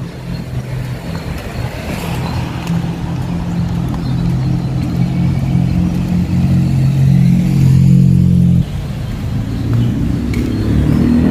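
A car's engine running close by: a low steady hum that builds over several seconds and then drops off suddenly about three-quarters of the way through.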